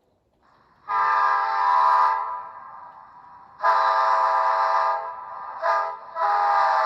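Recorded F40PH diesel locomotive multi-chime air horn played by an ESU LokSound 5 sound decoder. It sounds the grade-crossing pattern: two long blasts, a short one, then a long one. The last blast drops steadily in pitch as a Doppler pass-by effect.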